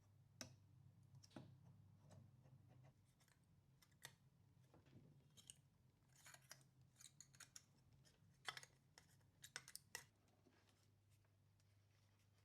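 Very faint, scattered clicks and snips of small hand work at a bench, over a low steady hum.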